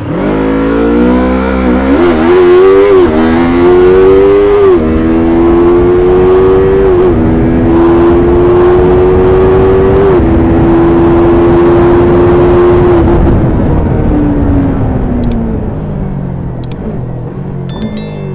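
Yamaha YZF-R3's stock 321 cc parallel-twin engine accelerating through several upshifts, its pitch climbing and dropping back slightly at each shift. It then holds a steady speed and winds down as the bike slows near the end.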